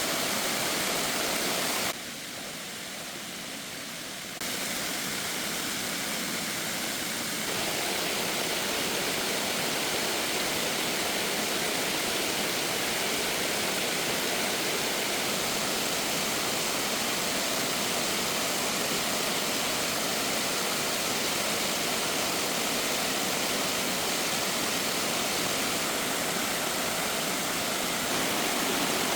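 Steady rush of running water with no distinct strikes or tones. It drops suddenly about two seconds in and comes back in two steps a few seconds later.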